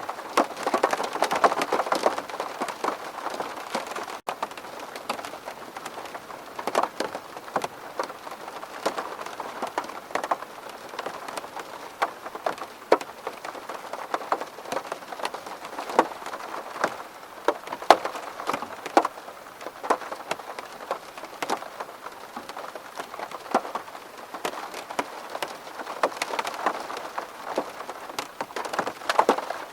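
Steady rain on a window pane, with many single drops tapping irregularly over the patter.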